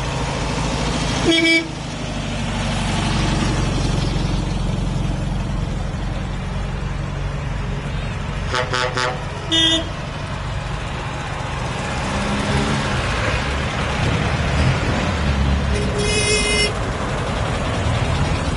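Tractor engines running with a steady low rumble, with several short horn toots over them; the longest toot comes near the end.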